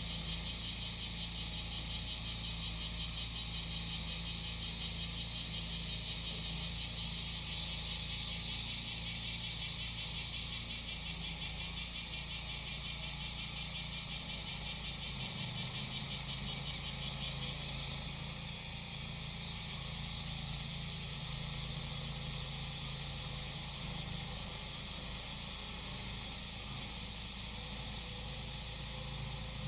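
Cicadas singing in a high buzz that pulses about four times a second, turning steadier about two-thirds of the way in. Under it, the engine of a grass-cutting machine runs with a steady low hum.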